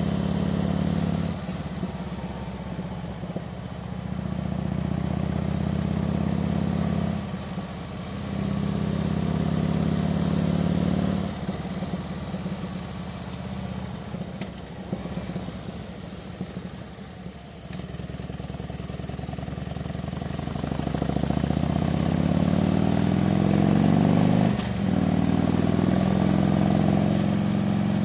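Harley-Davidson touring motorcycle's V-twin engine under way, pulling strongly in several stretches and falling back to a lower, quieter note in between. Near the end it rises in pitch under acceleration, with one brief dip about three-quarters of the way through.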